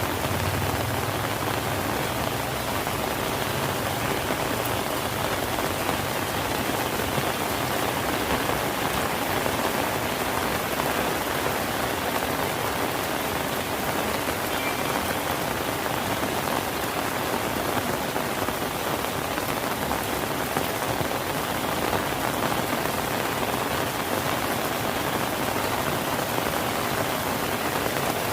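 Rain falling steadily, an even, unbroken hiss of drops with no lulls.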